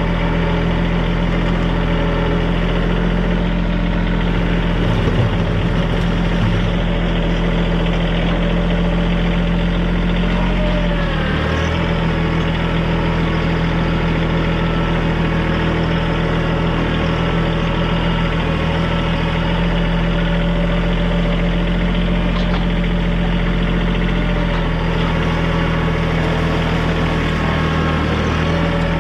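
TYM compact tractor's diesel engine running steadily. Its pitch dips briefly and recovers about eleven seconds in, and again near the end.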